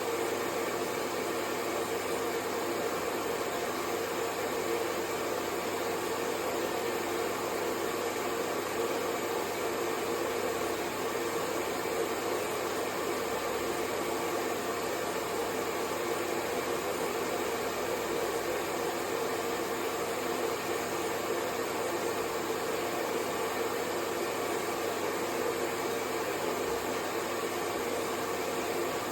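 Hair dryer running at a constant, unchanging blow: a steady airy whoosh with a faint hum underneath.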